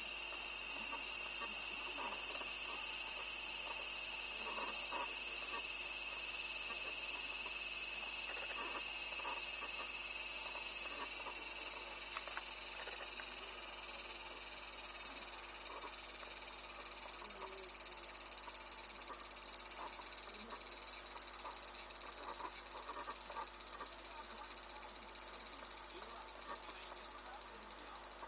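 A cicada calling at close range: one long, loud, high-pitched buzz that holds steady for about ten seconds, then slowly fades and sinks a little in pitch before stopping near the end.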